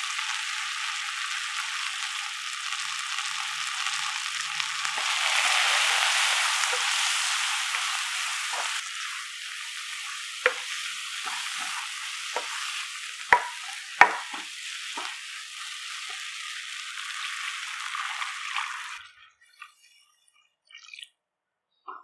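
Shallots, tomatoes and spices sizzling in hot oil in a frying pan while being stirred, with a spatula knocking against the pan in several sharp clicks from about ten seconds in. The sizzling cuts off suddenly near the end.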